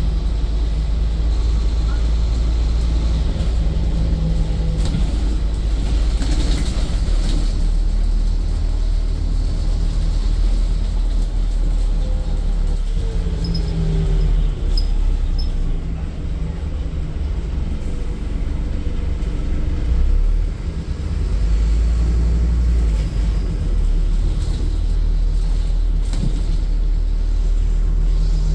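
Interior of a Scania N230UD double-decker bus on the move: the engine and drivetrain give a steady low rumble with road noise, and the engine note shifts a few times as the bus changes speed.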